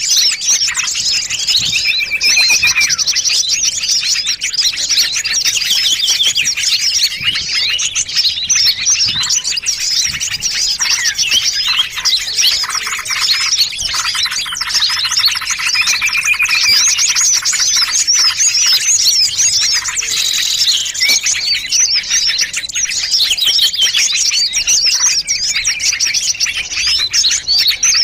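A dense chorus of many small songbirds chirping and trilling over one another without a break, with a few short held whistles among the rapid notes: a mixed bird-lure recording made to draw in small birds.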